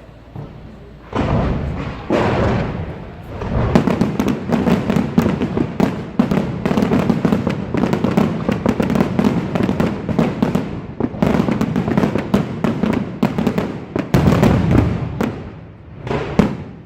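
Fireworks display heard close up: from about a second in, a dense, sustained barrage of bangs and crackling, with a continuous rumble beneath. It eases briefly near the end, then picks up again.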